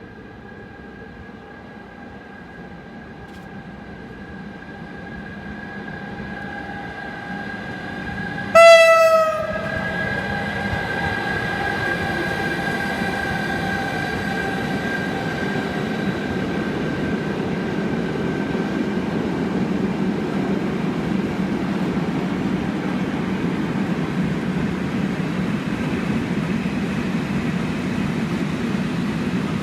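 A train approaches with a steadily rising rumble and sounds its horn in one short blast about eight seconds in, the horn's pitch sliding down as it passes. Then the loud, steady rumble of the train running by continues.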